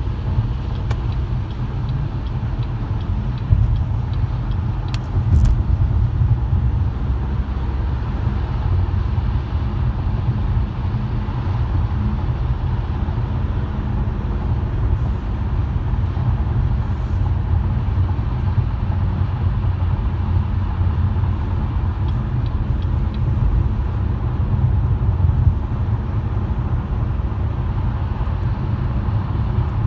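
Car driving on the road: a steady low rumble of engine and tyre noise, with a few faint clicks.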